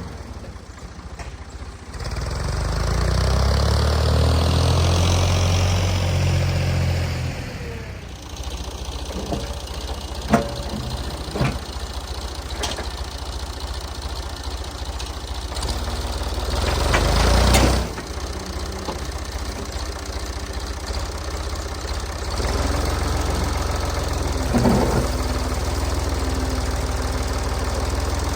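Tractor engine running, revved up and working hard for several seconds starting about two seconds in, then dropping back. Several sharp metal clanks come from the loader and forks in the middle, and the engine swells again briefly before cutting back.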